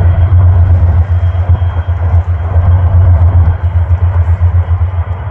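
Towboat diesel engines pushing barges upriver, heard as a loud, steady low drone whose level flickers rapidly.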